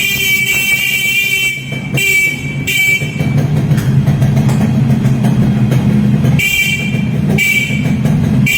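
Yamaha RXS 115 two-stroke motorcycle engine running, with its horn sounded in four short honks: at the start, about two seconds in, and twice near the end.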